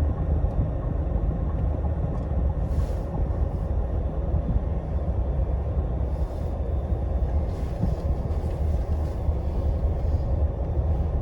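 Scania Astromega double-decker highway bus running, a steady low engine and road rumble, with a few faint short hisses.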